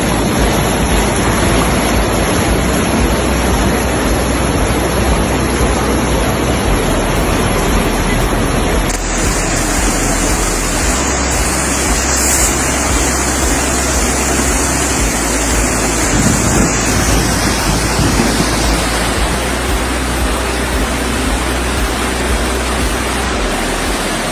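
Loud, steady rushing of torrential rain and floodwater, changing in character at a cut about nine seconds in.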